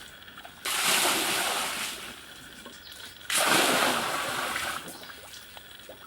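Two splashes of water, each starting suddenly and dying away over about a second and a half.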